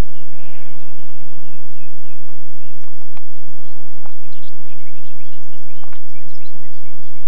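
Songbirds chirping in quick, short calls, thickest in the second half, over a steady low hum, with a few clicks.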